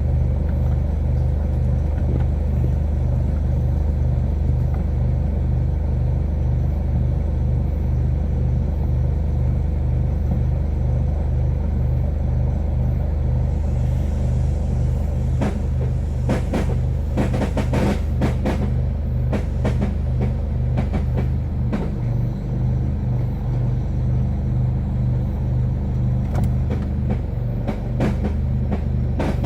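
2011 Mercedes-Benz E200 (W212) engine idling with a steady pulsing hum. From about halfway through, irregular sharp metallic clatters come and go over the hum. This is the erratic rattle that the owner suspects comes from the timing chain, flywheel, mounts or injectors.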